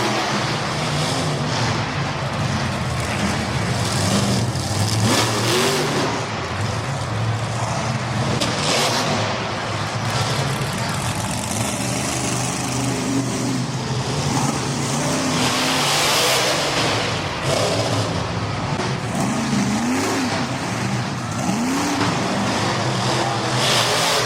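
A vehicle engine running steadily, with revs rising and falling several times, and swells of rushing noise.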